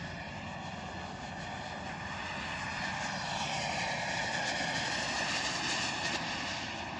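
Turbine engine of a BDX radio-controlled model jet in flight: a steady whine whose pitch shifts slowly. It grows louder about two thirds of the way through as the jet passes.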